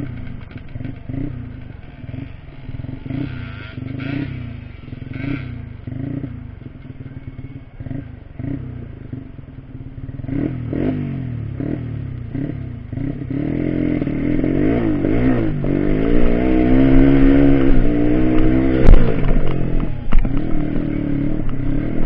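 Trail motorcycle engine revved in short, repeated throttle blips, each rising and falling. About two-thirds of the way through it is held at higher, wavering revs and grows louder. A sharp knock sounds near the end, and then the revs drop.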